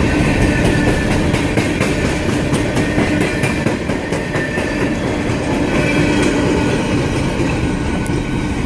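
Empty coal hopper cars of a long freight train rolling past, wheels clicking over the rail joints with a steady rumble.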